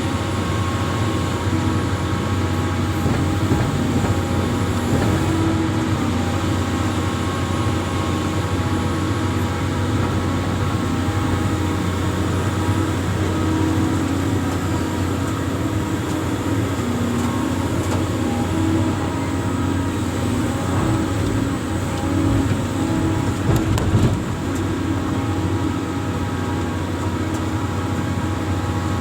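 Amphibious excavator's diesel engine running steadily, its tones shifting a little in pitch now and then. Near the end there is a brief knock.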